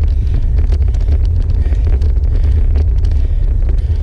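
Wind buffeting a bike-mounted camera's microphone during a road-bike climb: a loud, steady low rumble.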